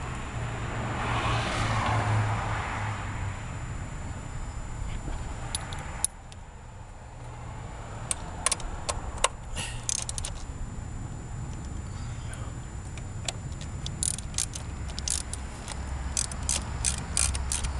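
Ratchet wrench clicking in short runs while turning 8 mm bolts, with scattered metallic clicks and clinks of tools; the clicks come faster and closer together in the last few seconds. A steady low hum runs underneath.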